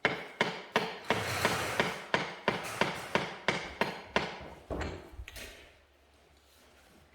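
Hammer striking in a quick run of sharp taps, about three a second, with a rougher scraping stretch in the middle; the taps stop about five and a half seconds in. This is typical of tapping or dressing bricks during bricklaying.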